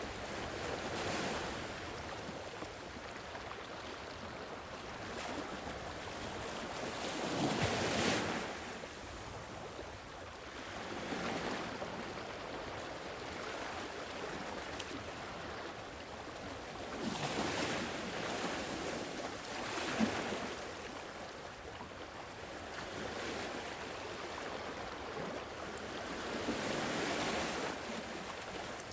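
Sea waves washing onto the shore in slow, repeated swells, one every few seconds, the strongest about eight seconds in.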